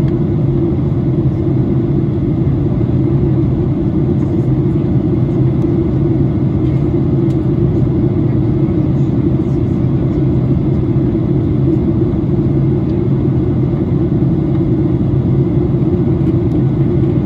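Steady cabin drone of a Boeing 737-800 in flight, a low rumble of its CFM56-7B engines and the rush of air over the fuselage, heard from a window seat during the descent.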